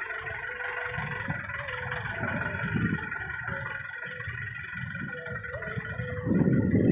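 Dump truck diesel engines running, with a faint steady whine over them. About six seconds in, a louder rushing noise starts.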